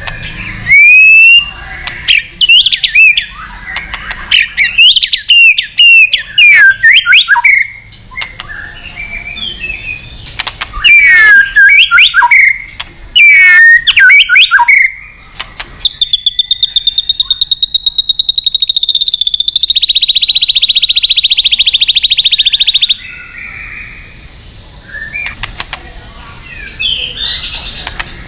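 White-rumped shama singing: loud whistled phrases of quick sliding notes, then, just past the middle, a fast even trill held for about seven seconds, followed by fainter scattered notes.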